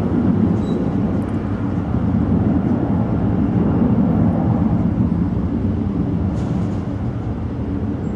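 Jet airliner engines making a steady low rumble.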